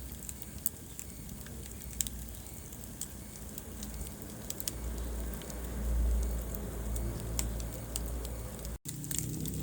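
Wood fire burning in a fireplace: scattered sharp crackles and pops over a low steady rumble of the flames. The sound cuts out for an instant near the end.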